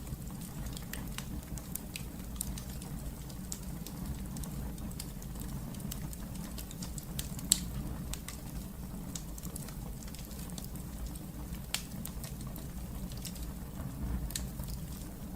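Wood fire burning in a fireplace: a steady low rumble of the flames with irregular sharp crackles and pops, one loud pop about halfway through.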